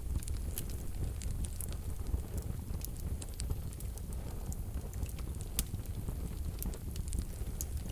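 Wood fire burning in a wood-burning stove: irregular sharp crackles, many each second, over a low steady rumble of the flames.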